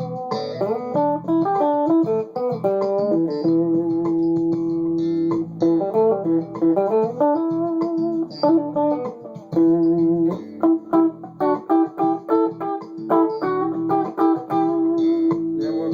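Rebuilt Fender Duo-Sonic electric guitar on its Seymour Duncan P-Rails bridge pickup in single-coil mode, playing a lead line of quick single notes broken by long held notes, over a looped backing track.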